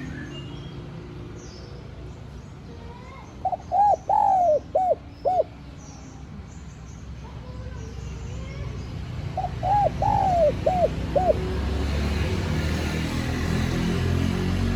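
Spotted dove singing: two phrases of five cooing notes each, a few seconds apart. A steady low rumble runs underneath and grows louder near the end.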